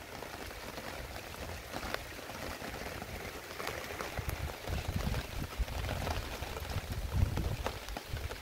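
Heavy storm rain falling and pattering on surfaces, with many sharp drop ticks. Low rumbles swell now and then, the strongest about seven seconds in.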